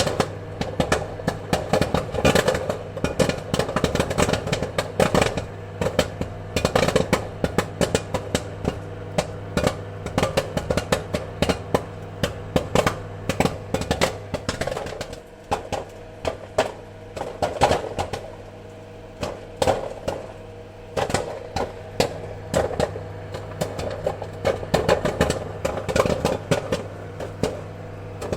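Popcorn kernels popping in quick, irregular succession, many sharp pops a second, over a steady low hum.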